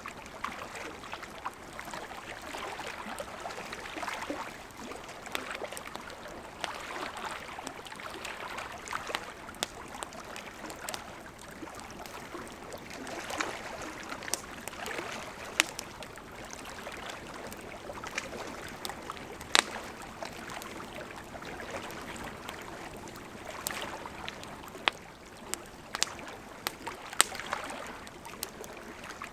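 A river flowing steadily, a continuous rushing and burbling that swells and eases, with a campfire's wood crackling over it in irregular sharp pops, one louder pop about twenty seconds in.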